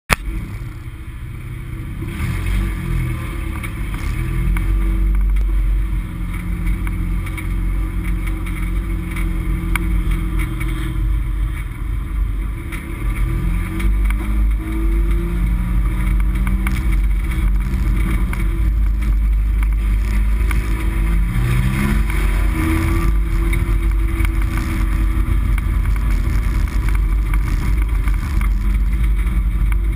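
Engine of a stripped-out race car heard from inside the gutted cabin, running loud with a heavy low rumble. Its pitch rises and falls several times as the throttle is worked at low speed.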